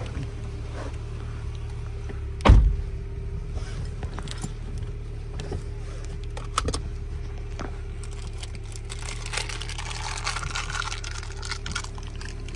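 A car engine running with a steady low hum. A single heavy thud comes about two and a half seconds in, with a smaller knock later and scattered light clicks and rattles.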